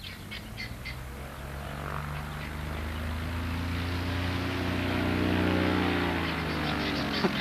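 Cessna 180's piston engine and propeller growing louder as the plane draws near, then sinking a little in pitch as it goes past. There is a sharp click near the end.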